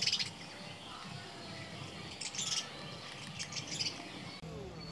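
Birds chirping in three short bursts of high notes: at the start, about two seconds in, and about three and a half seconds in, over a faint steady background.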